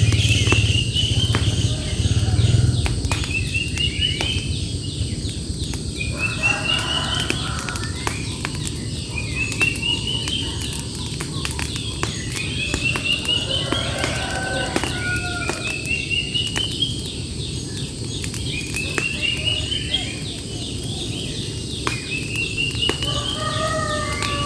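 A songbird repeating a short phrase of quick rising notes every few seconds, with a few lower calls from another bird mixed in. Sharp clicks are scattered throughout over a steady low rumble of background noise.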